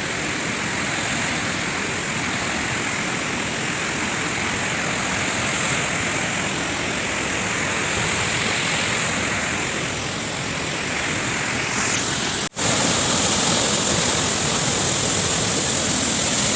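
Waterfall pouring down from high up, a steady rushing roar. It cuts out for an instant about twelve seconds in and comes back slightly louder.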